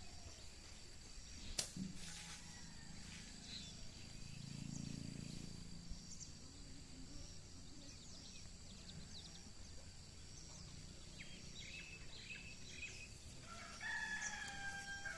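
Faint outdoor ambience with small birds chirping and a steady high-pitched tone, a sharp click about a second and a half in, and a rooster crowing near the end.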